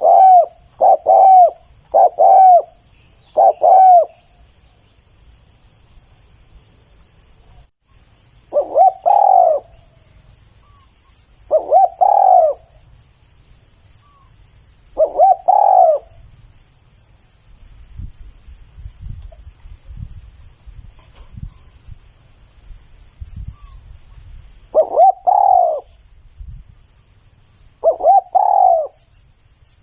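Spotted dove cooing: a quick run of four coos, then single and paired coos several seconds apart. A steady high buzz and faint chirping sit underneath.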